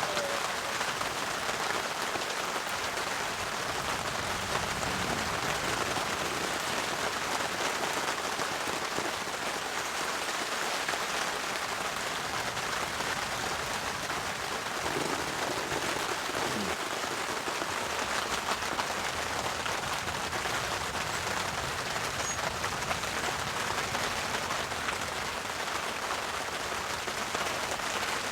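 Heavy rain falling steadily on an extra heavy-duty tarp overhead, an even, unbroken patter of drops.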